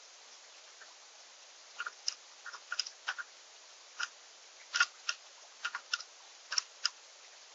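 Birds feeding at a seed feeder: a dozen or so short, sharp, irregular clicks and taps of seed being cracked and pecked, in quick pairs and small clusters over a steady faint hiss.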